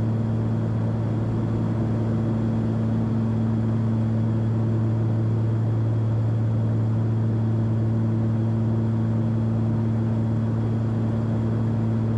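Cockpit drone of a Cessna 340's two engines and propellers in steady flight, an even hum with a low tone and its octave that does not change.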